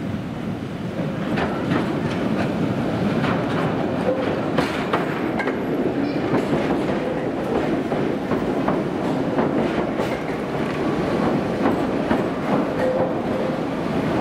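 Island Line Class 483 electric train, converted ex-London Underground 1938 tube stock, running on the pier and station track: a steady rumble with many quick clicks of the wheels over rail joints.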